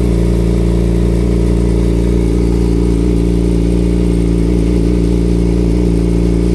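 Yamaha R6 motorcycle's inline-four engine running steadily at an unchanging pitch, with no revving up or down.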